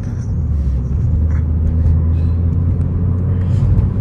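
Honda Civic heard from inside the cabin while driving: a steady low drone of engine and road noise.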